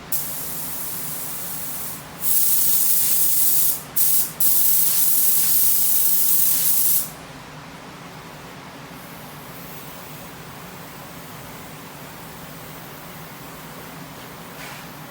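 Small touch-up paint spray gun spraying on compressed air: a softer hiss for about two seconds, then louder hissing in three bursts with brief breaks around four seconds in, stopping about seven seconds in. A steady low hum runs underneath.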